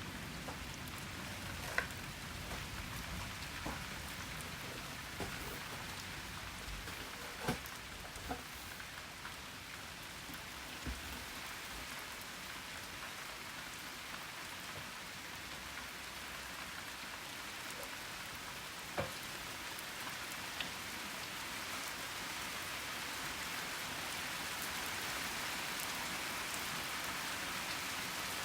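Steady rain falling during a thunderstorm, with a few sharp taps of single drops striking close by; the rain grows a little louder near the end.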